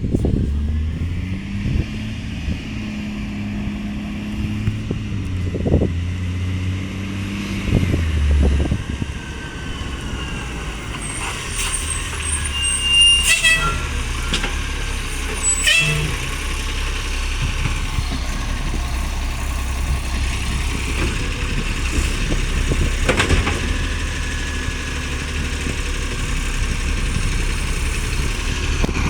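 Diesel engine of a FOGO garbage truck, a truck with an exhaust leak, revving up and holding for several seconds, then running steadily. A few sharp knocks and short hisses come around the middle.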